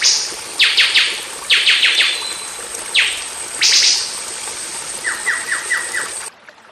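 A songbird singing in quick bursts of three to five sharp, downward-sweeping whistled notes, with a lower, softer run of sweeps near the end. A steady thin high tone sits under it. The recording cuts off abruptly shortly before the end, leaving only a faint hiss.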